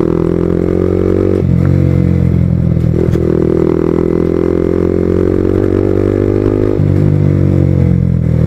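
Yamaha MT-15's 155 cc single-cylinder engine running under way, heard through an exhaust newly fitted with a catalytic converter, which the owner says has made its note smoother. The note is steady, shifting once about a second and a half in and again near the end as the throttle changes.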